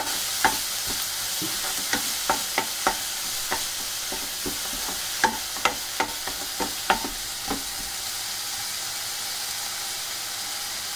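Finely chopped onion sizzling steadily in hot oil in a nonstick kadai. A wooden spatula knocks and scrapes against the pan as it is stirred, and the knocks stop about two-thirds of the way through, leaving only the sizzle.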